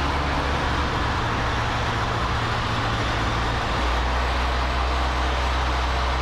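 Cessna 152's four-cylinder Lycoming O-235 engine and propeller droning steadily in flight, heard from inside the cockpit along with airflow noise. The low engine tone shifts slightly about four seconds in.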